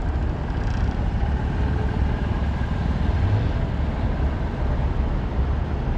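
Diesel truck engine running steadily: a continuous low rumble.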